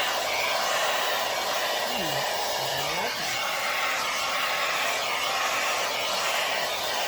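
Hair dryer running steadily, blowing air across wet poured acrylic paint on a canvas.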